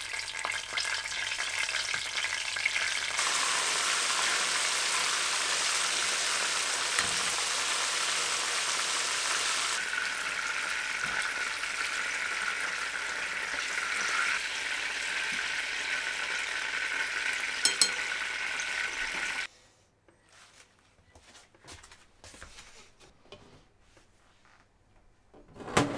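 Food frying in a pan, a steady sizzle that stops suddenly about three-quarters of the way through. Then it is quiet, with small scattered knocks and one sharper clack near the end.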